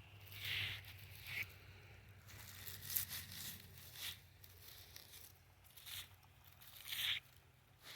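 Soft, irregular rustling and scratching noises from something being handled close to the microphone, with a sharp click about three seconds in.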